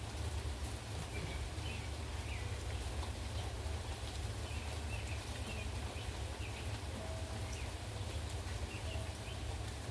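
Steady rain with a low, constant wind rumble, and short high chirps scattered through it.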